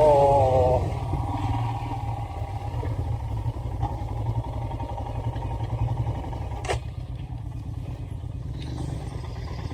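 Royal Enfield Himalayan motorcycle's single-cylinder engine running at a steady idle with a rapid, even pulse. A single sharp click comes about seven seconds in.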